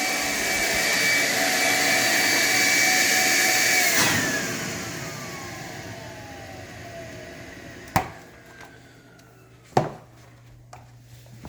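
Vacumaid central vacuum running with a steady rush and whine, then switched off about four seconds in, its motor whine falling in pitch as it spins down. Two sharp knocks come later.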